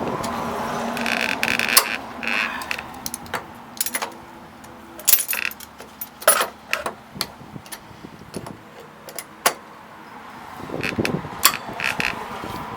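Vice grips clinking and scraping against the rusted muffler of a Briggs & Stratton 5.5 hp mower engine as it is worked loose by hand: scattered sharp metal clicks and clinks, with short high squeaks about a second in and again near the end.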